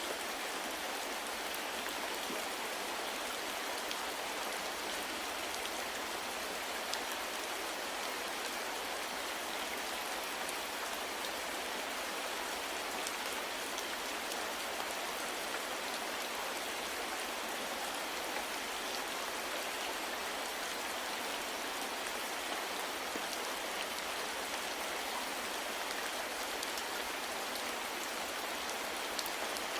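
Steady, soft rain falling, an even hiss with the patter of individual drops ticking through it.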